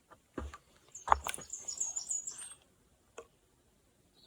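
Two sharp knocks, the second the louder, then about a second and a half of rustling with a rapid run of high chirps from a small bird twittering over it.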